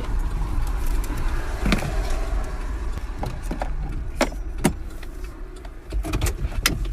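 Steady low rumble of a car, with several sharp clicks and knocks of handling scattered through it.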